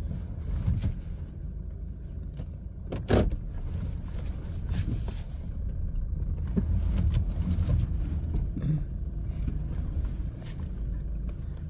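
Low, steady rumble of a BMW car running, with a single sharp click about three seconds in.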